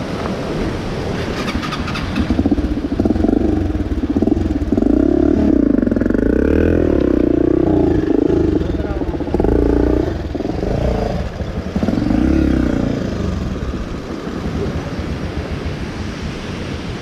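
Motorcycle engine revving in repeated surges, its pitch rising and falling several times, then easing back to a lower run near the end.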